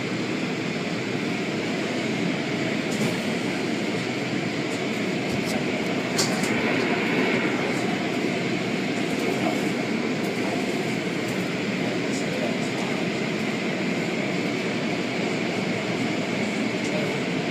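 Automatic tunnel car wash running: a steady rushing noise from its machinery, with a few faint clicks.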